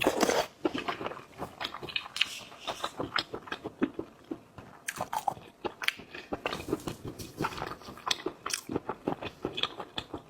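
Close-miked eating of seafood: steady chewing and crunching with many small wet clicks and smacks, several a second.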